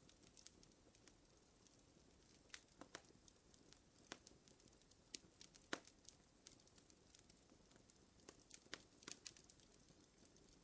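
A wood fire in a fireplace crackling faintly: irregular sharp pops and snaps over a low steady hiss, the loudest pop about five and a half seconds in.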